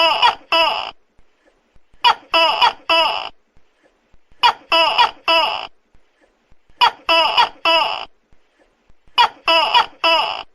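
Tokay gecko calling loudly: short groups of about three clipped notes, one group roughly every two and a half seconds, five groups in all.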